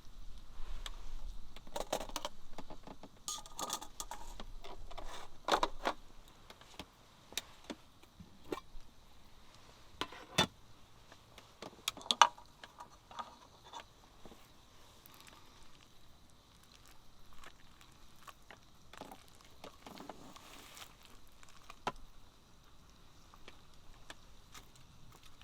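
Light clinks, knocks and rustling of small things being handled, busy over the first six seconds, then scattered single knocks, the sharpest about ten and twelve seconds in.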